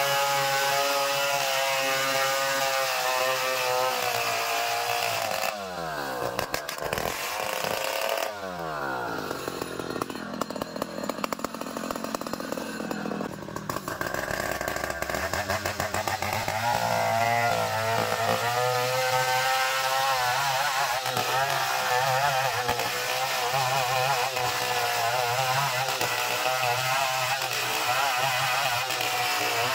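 Two-stroke chainsaw running at high speed through ulin ironwood. About six seconds in it drops off to a low idle, and at around fifteen seconds it is throttled back up and runs at full speed again, its pitch wavering under load.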